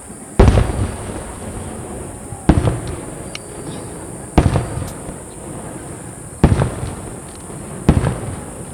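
Large aerial firework shells bursting, five loud booms about two seconds apart, each fading away in a rumbling echo.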